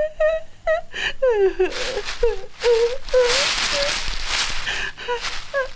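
A cartoon character's voice whimpering in short, bending whines, with a hissing rush of noise underneath from about two to five seconds in.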